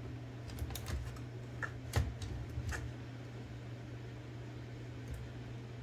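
A handful of small, sharp clicks and taps from metal typewriter carriage parts and bearings being handled and fitted, the loudest about two seconds in, then quieter. A steady low hum runs underneath.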